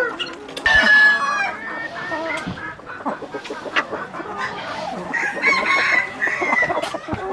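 Chickens clucking and calling, with a loud call about a second in and another around five to six seconds in, and a few sharp knocks among the clucks.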